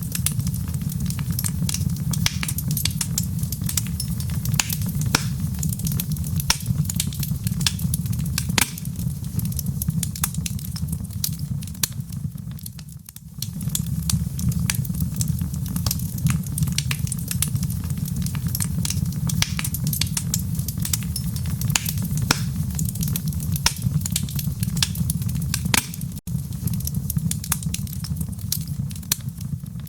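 Wood fire crackling in a fireplace: frequent sharp pops and snaps over a steady low rumble, easing off briefly near the middle.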